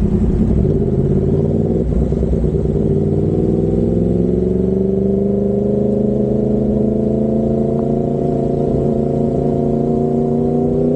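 Yamaha MT-10's crossplane inline-four running through an SC Project carbon-titanium exhaust, its note rising slowly and steadily as the bike gathers speed.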